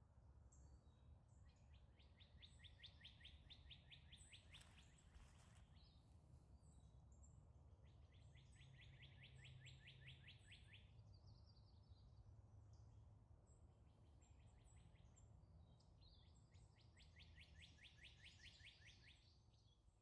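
Faint woodland ambience with a songbird singing a fast, even trill of rapid notes, each lasting two to three seconds and repeated about every seven seconds, with thin high chips between the trills.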